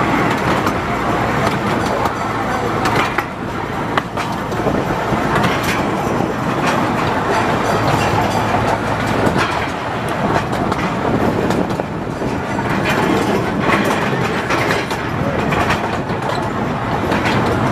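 Yellow Rose Express zoo train running along its track: steady rolling noise with irregular clacks of the wheels passing over rail joints.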